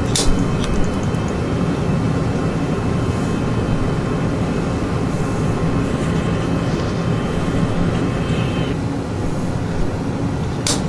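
A steady low rumbling drone with sharp clicks from the gas water heater's electronic igniter button: two just after the start and two more near the end, as it sparks at the pilot to light it.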